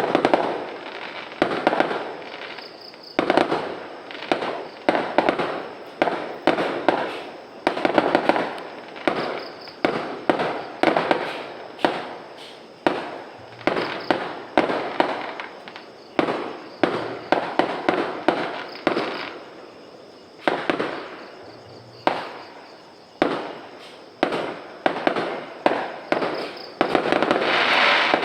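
A fireworks display: a rapid, steady run of explosions, about one or two bangs a second, each trailing off in a crackle, with a louder, longer burst near the end.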